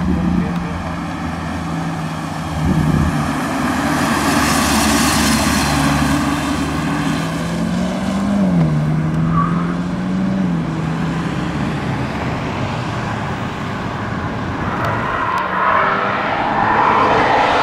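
Engine of a camouflaged BMW SUV prototype running under load as it drives past, its pitch climbing and dropping twice around the middle. Tyre noise grows near the end.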